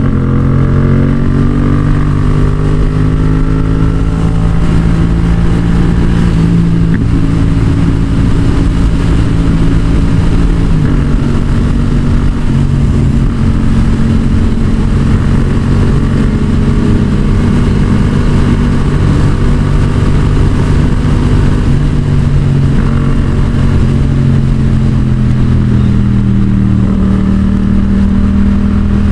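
Yamaha XSR700's 689 cc parallel-twin engine through a Yoshimura R-77 aftermarket exhaust, rising in pitch as the bike accelerates at first, then holding a steady high-rpm cruise. The pitch dips briefly about eleven seconds in.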